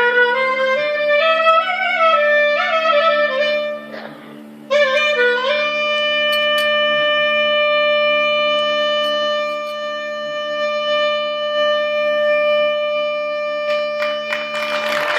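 A woodwind instrument plays a stepwise rising melodic phrase in makam Hicaz, breaks off briefly about four seconds in, then holds one long steady note over a low steady drone. Applause starts right at the end.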